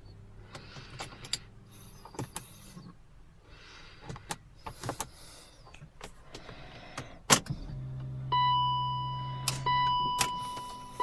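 Clicks and rustling of the key in a BMW 525i's ignition, then a sharp click and a low electric motor hum as the ignition switches on, with the dashboard warning gong ringing three times. The engine does not crank: the car's no-crank fault.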